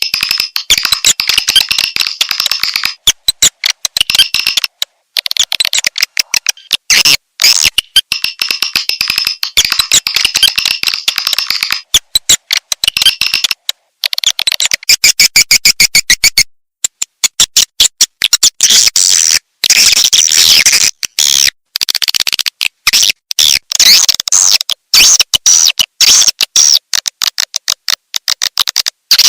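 Swiftlet calling sound used as a lure for swiftlet houses: rapid trains of sharp, high chirps and clicks in dense runs, broken by brief pauses.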